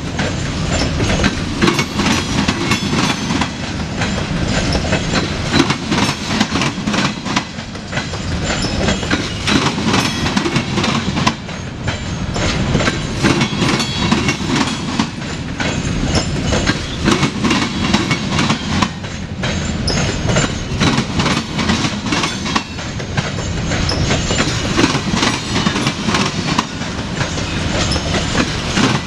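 Freight train of covered hopper cars rolling past close by: a continuous rumble of steel wheels on rail with steady, rapid clicking and clattering as the trucks pass over the rails.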